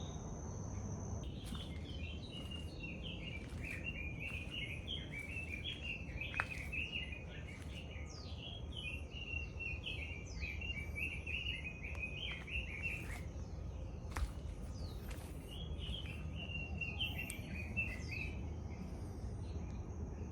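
A songbird in the rainforest singing a long, rapid run of varied chattering phrases, breaking off briefly about two-thirds of the way through, over a steady high whine and low background rumble.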